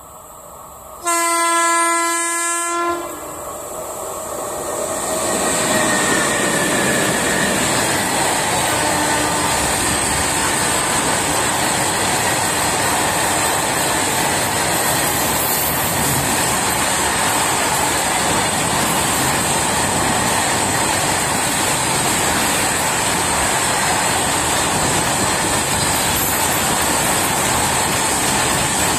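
Indian Railways WAG-7 electric locomotive sounding one horn blast of about two seconds, starting about a second in. The locomotive and a long rake of open steel freight wagons then run past close by, with a loud, steady noise of wheels on rail.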